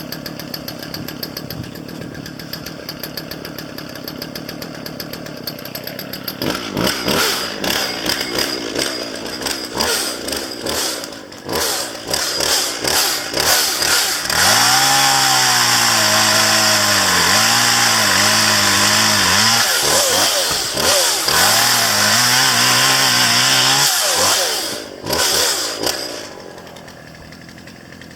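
Chainsaw idling, then revved and held at full throttle while cutting downed branches, its engine pitch sagging and recovering under load; it drops back to idle near the end.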